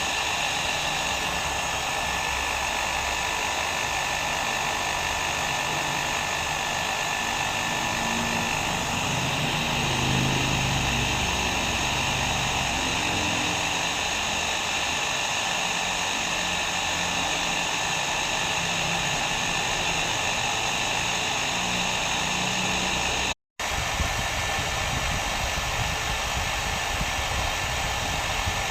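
Hair dryer running steadily: a constant blowing rush with a faint motor whine. It cuts out completely for an instant about 23 seconds in, then resumes unchanged.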